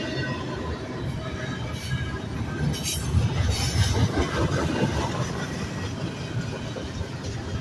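CSX intermodal freight train passing: a steady rumble of wheels on the rails, loudest about three to four seconds in.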